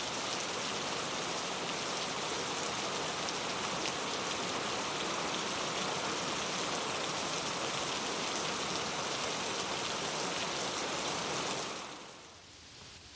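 Steady rain falling: an even hiss with a light patter of drops, fading down about a second before the end.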